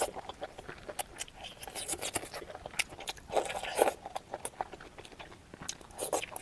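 Close-up sounds of a person biting and chewing a spicy pork roll: repeated short, sharp mouth clicks and smacks, with heavier bursts of chewing about two seconds in and again around three and a half seconds in.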